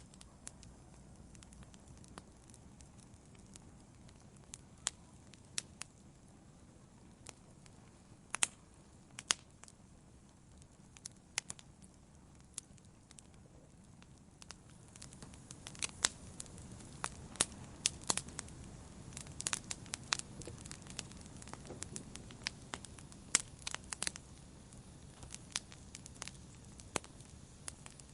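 Wood campfire burning: irregular sharp crackles and pops over a soft low rumble of flame, the pops coming thicker from about halfway through.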